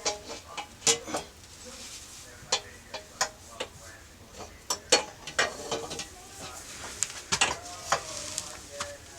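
Irregular metal clicks and clinks of tools and exhaust parts being handled and fitted to a two-stroke dirt bike, a few ringing briefly.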